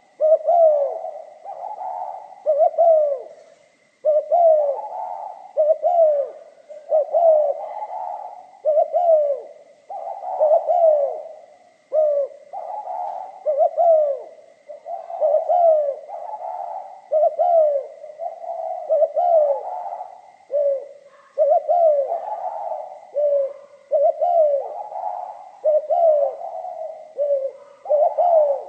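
Spotted dove cooing, phrase after phrase in a steady series with hardly a pause, each phrase a run of short low coos. A faint steady high tone sits under the calls.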